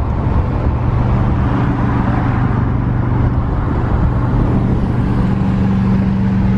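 A 2000 Subaru Outback driving with a steady, loud low drone and road noise, the sound of an exhaust in need of repair. A second, higher steady tone joins the drone about five seconds in.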